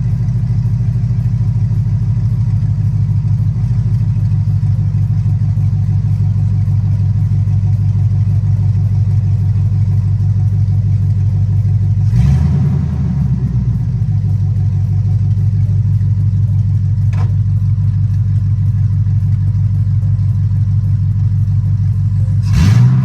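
LS-swapped V8 in a box Chevy, running loud and without its finished exhaust, idling steadily. It gives two short revs, one about halfway through and one at the end.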